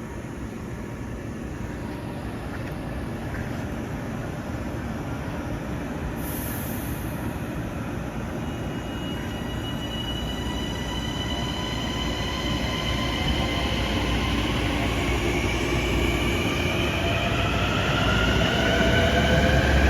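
Long Island Rail Road M9 electric multiple-unit train running at the station, its sound building steadily louder. From about nine seconds in, several high whining tones climb in pitch together, the motor whine of the train gathering speed.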